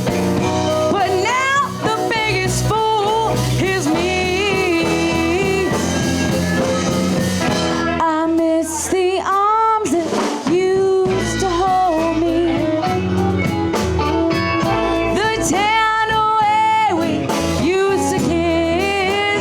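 Live blues band playing a slow blues, with a melodic lead holding and bending long notes over bass, drums and keys.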